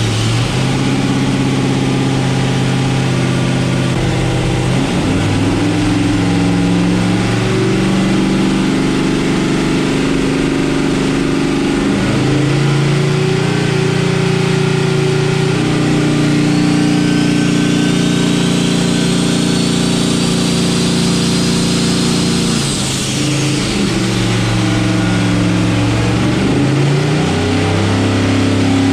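Twin-turbo LS V8 engine of a drag car running on a chassis dyno, its speed held steady and stepping up and down every few seconds. A faint high whistle rises over several seconds midway, then falls.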